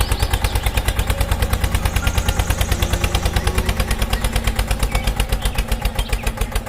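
Tractor engine sound running at a steady, fast putter of about eleven beats a second, then cutting off suddenly near the end.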